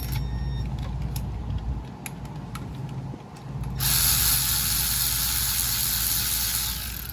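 Hand ratchet clicking in short spells over a steady low hum, then a loud, steady hiss starts about four seconds in and stops about three seconds later.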